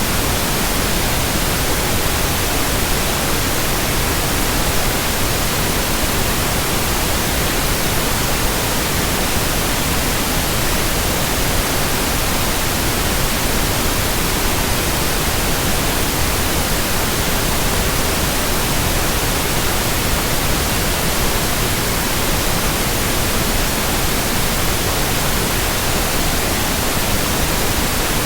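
Steady white noise: an even, unchanging hiss across the whole range, with no hum, tone or rhythm of turning blades.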